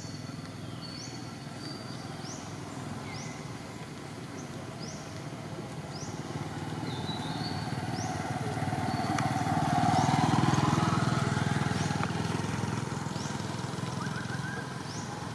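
A motor vehicle passing on the road, its engine noise growing louder to a peak about ten seconds in and then fading, its pitch gliding as it goes by. Short high chirps repeat about once a second throughout.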